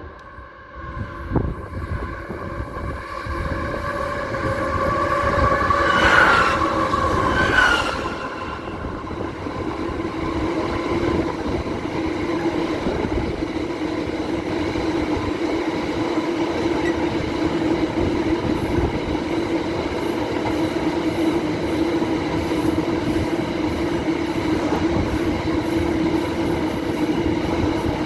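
Aurizon train passing close by: a loud blare about six to eight seconds in as the front goes past, then a long run of wagons rolling by with a steady rumble and a constant whine from the wheels.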